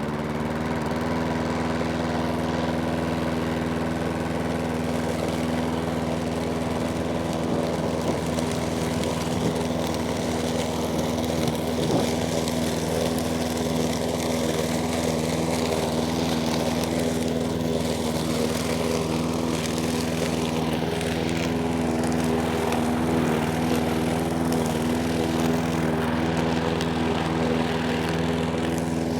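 Sovereign petrol push lawnmower's Briggs & Stratton single-cylinder engine running steadily near full throttle, most likely while cutting grass. Its pitch rises slightly just after the start, then holds even.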